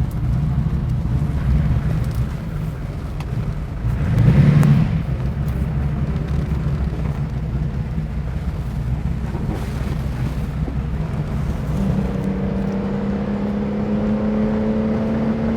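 1967 Lamborghini 400 GT's V12 engine running as the car is driven off, a steady low rumble with a louder swell about four seconds in and a steady, slowly rising engine note from about twelve seconds in.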